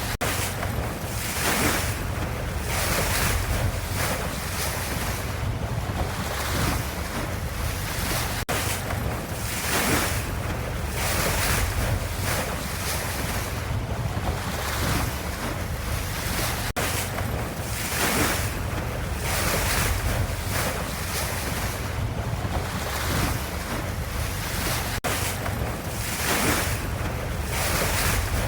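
Ocean waves washing in, a steady rush that swells and eases every few seconds, with a brief dropout about every eight seconds.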